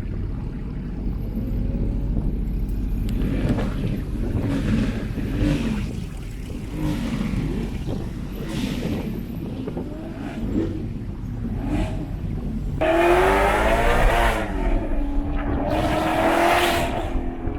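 Supercar engine through a Long High Merge F1-style exhaust: a steady low drone while cruising, then two hard revs about thirteen and sixteen seconds in, a high-pitched wail whose pitch climbs and falls.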